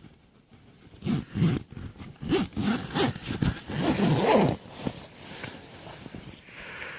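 A zip on a bivvy bag being pulled in several short rasping strokes, with rustling fabric.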